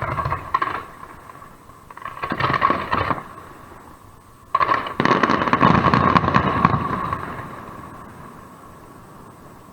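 Fireworks going off in bursts of rapid crackling and popping. A short burst comes about two seconds in, then a louder one starts sharply about halfway through and dies away over a few seconds.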